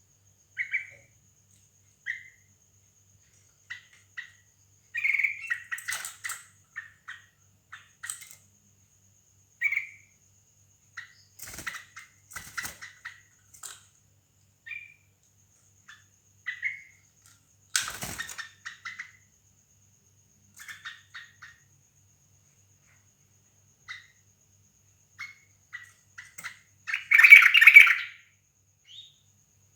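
Yellow-vented bulbuls in a hanging cage giving short, scattered chirps, with a louder run of calls near the end. A few sharp clicks or knocks come in between.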